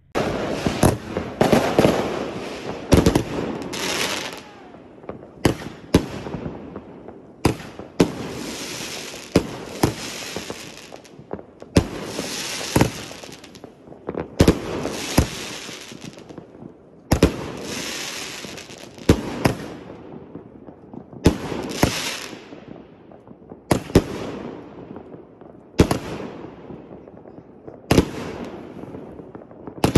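Sky shot aerial fireworks going off in a steady series: a sharp bang about every two seconds, each followed by a hiss that fades away.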